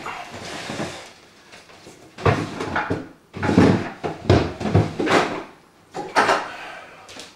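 A series of clunks and scrapes as a motherboard is seated and screwed down in a metal PC case, with eight or nine separate knocks bunched after about two seconds.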